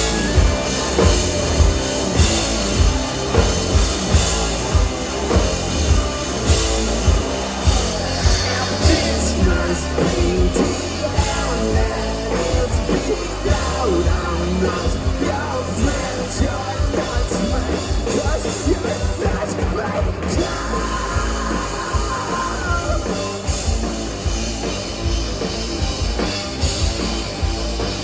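Live rock band playing loud with a steady beat on the drum kit and electric guitars, an instrumental stretch after the sung line.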